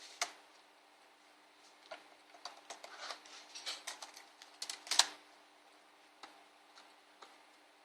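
Laptop keyboard being pried out of its plastic latches: a string of small plastic clicks and snaps, with a sharp click near the start, a busy cluster from about two seconds in, and the loudest snap about five seconds in.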